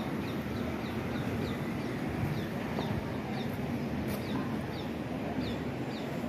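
A small bird calling, a run of short, high chirps that each fall in pitch, quick at first and then thinning out after the first couple of seconds, over steady outdoor background noise.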